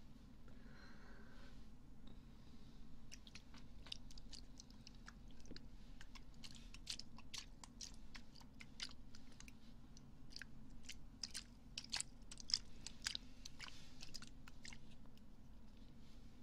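Close-up crackling and scratching of ASMR ear cleaning on a microphone: many short, irregular crackles and clicks, densest through the middle, over a faint steady hum.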